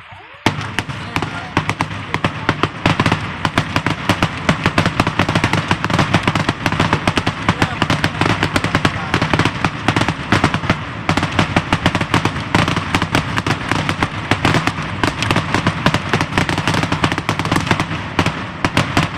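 Fireworks going off in a rapid, unbroken crackle of many sharp bangs a second, starting about half a second in.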